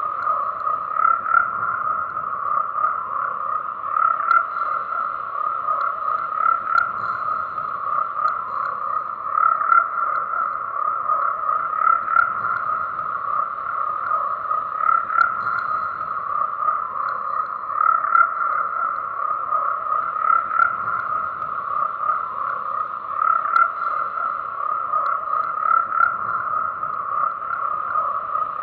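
A chorus of many frogs calling continuously, a dense overlapping croaking with no pauses.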